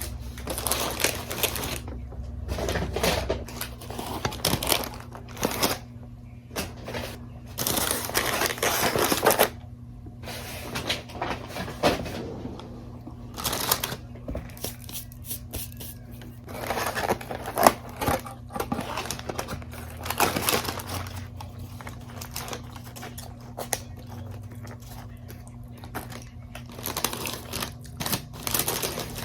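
Irregular rustling, crinkling and clicking of takeout food packaging being handled and opened, in bursts of a second or two with short pauses between.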